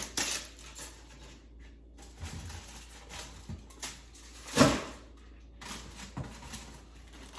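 Food containers being handled while a fridge is cleared out: scattered soft knocks and clicks of plastic tubs, with one sharp, loud knock about four and a half seconds in.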